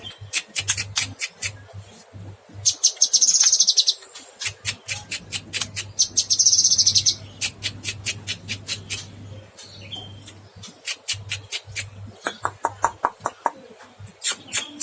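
Cucak kinoy songbird singing vigorously. It gives fast runs of sharp, high chirping notes, broken by two long, high buzzing trills about three and six seconds in.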